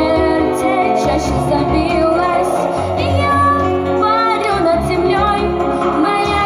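A female voice singing a song, holding notes with vibrato, over a backing track with a steady bass beat.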